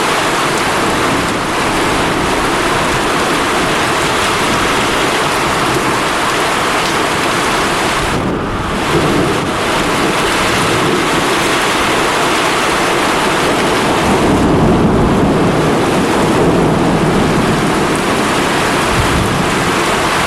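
Heavy thunderstorm downpour: the dense, steady hiss of hard rain, with a low thunder rumble swelling up about two-thirds of the way through.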